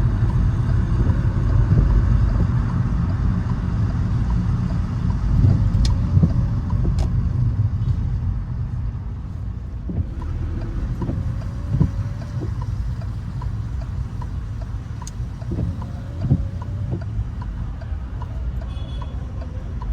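A car driving through wet city streets at night: a steady low rumble of engine and tyres on the wet road, easing a little after the first few seconds. In the second half a light, regular ticking comes about once every two-thirds of a second, with a few scattered knocks.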